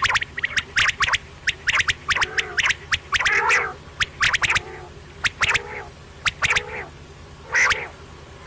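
Quail calling: a rapid scatter of short, sharp clicking notes mixed with harsher, throaty calls about once a second.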